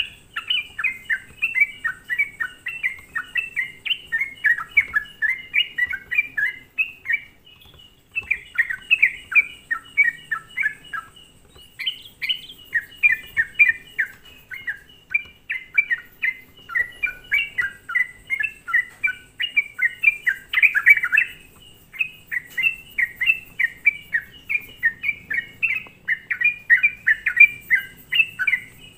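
Yellow-vented bulbul (trucukan) song played as a lure call: rapid, continuous runs of chirping notes, broken by short pauses a few times.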